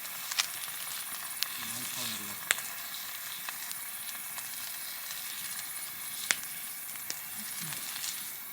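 Food sizzling steadily in cookware set directly on a hot wood fire in a fire pit. Sharp crackling pops break in every second or so.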